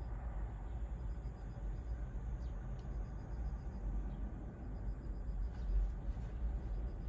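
Steady low rumble of surf and wind at the beach. Insects chirp above it in short trains of evenly spaced high pulses.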